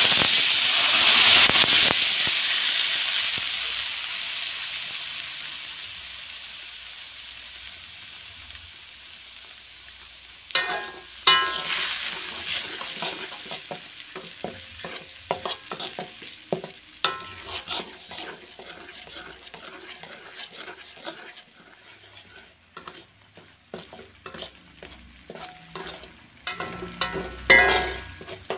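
Yellow ground spice paste hitting hot oil in an aluminium wok: a loud sizzle that fades over about ten seconds. Then a metal spatula stirs and scrapes the paste against the wok, with irregular clinks over a quieter sizzle.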